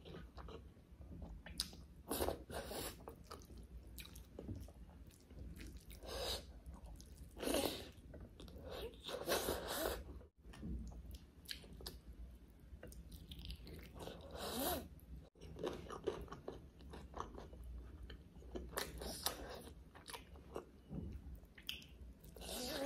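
A person biting into and chewing butter chicken with rice eaten by hand: irregular bites and chews in bursts, a second or so apart.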